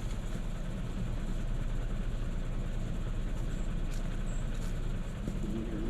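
A truck's engine running with a steady low rumble, no change in pitch or level.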